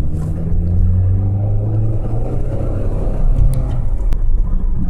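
A car driving off, heard from inside the cabin: a steady low engine hum over road rumble. The hum fades about four seconds in.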